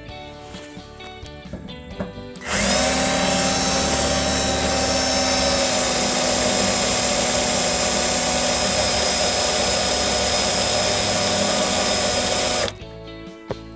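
Cordless power drill running steadily under load, boring a hole through a tractor's fender well; it starts about two and a half seconds in and stops abruptly about a second before the end. Soft acoustic guitar music plays before it starts.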